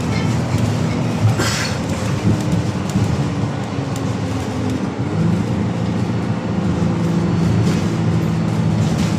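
E500 MMC engine running with a steady low hum. Its pitch shifts slightly and settles about halfway through, with a brief hiss about a second and a half in.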